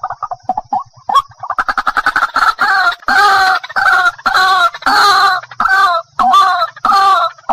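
White-breasted waterhen calling: a quick run of short notes builds into loud, harsh, repeated calls about every half second, the 'ruak-ruak' call used to lure the bird.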